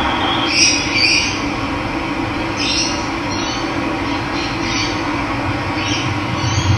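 Steady rush of running water, with a bird calling over it in short harsh notes, about seven times.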